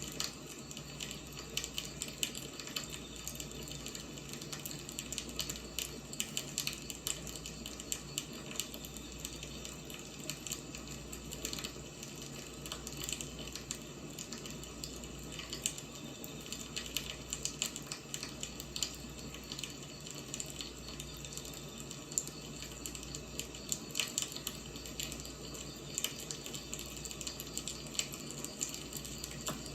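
Firewood burning, with a steady hiss dotted with frequent sharp crackles and pops.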